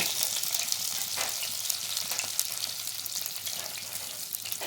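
Chopped onions and green chillies frying in hot oil: a steady sizzle with fine crackles that slowly eases off.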